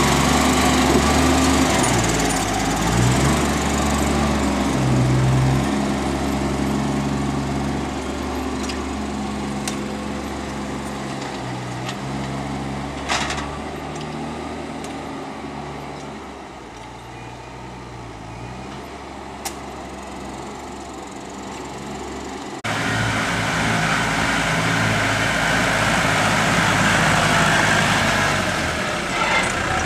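Farm tractor engines working, the engine note shifting up and down and slowly fading as the machine moves off. About two-thirds through, the sound jumps suddenly to a louder, closer engine.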